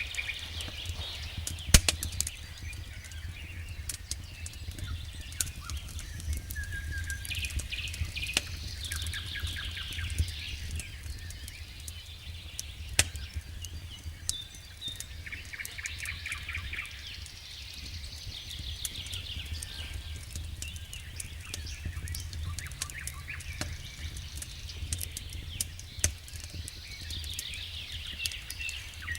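Wood fire burning in a fireplace, crackling with irregular sharp pops, a few of them loud, over a steady low rumble.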